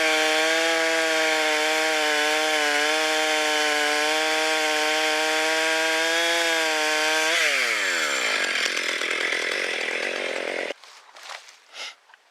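Chainsaw held at high revs for about seven seconds, cutting firewood. It then drops back to idle and stops suddenly about a second before the end, followed by a few light knocks.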